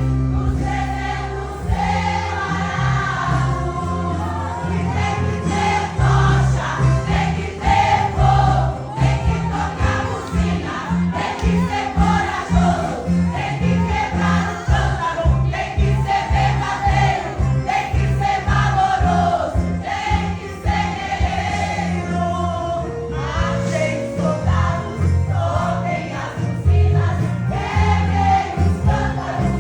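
Women's church choir singing a Portuguese gospel hymn over instrumental accompaniment with a stepping bass line.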